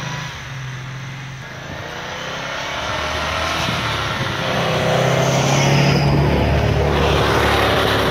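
Land Rover Defender 110's 3.5-litre V8 engine pulling under load through deep snow, its revs rising and getting louder about halfway through, then held high. A hiss of snow thrown up by the tyres joins near the end.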